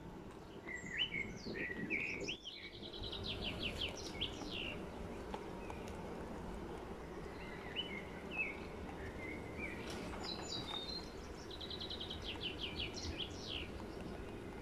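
A songbird singing two phrases, each a few chirps followed by a fast, even trill of repeated notes, over a low steady hum.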